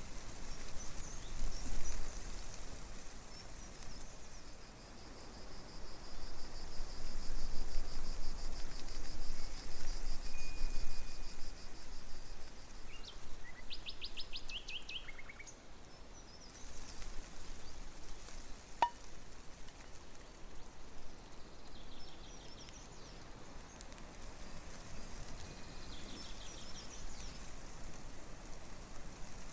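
Songbirds calling, including a long, rapid, high trill and a few short chirps, over a steady rushing background noise that swells and fades.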